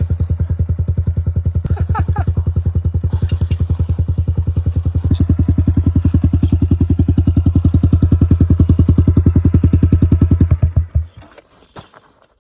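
Dirt bike engine running steadily at idle with an even, rapid pulse, louder from about five seconds in, then shut off about a second before the end.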